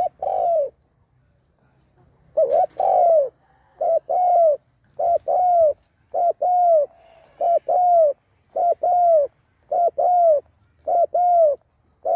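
Spotted dove cooing: a two-part call, a short note and then a longer arched note, repeated steadily about once every second and a bit.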